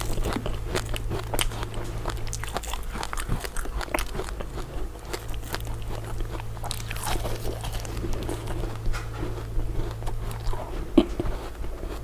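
Close-up biting and chewing of crisp crystal ice dessert pieces: a quick run of sharp cracks and crunches, with one louder crack near the end. A low steady hum runs underneath.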